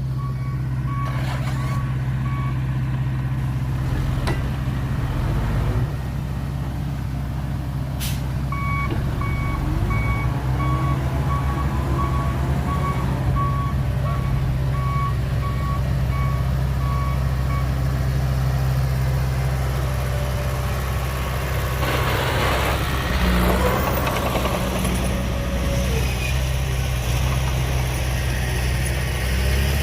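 Heavy diesel engines of a bulldozer and dump truck running steadily, with a vehicle reversing alarm beeping briefly at the start and again for about nine seconds from about eight seconds in. A few seconds of louder rattling and scraping come about twenty-two seconds in.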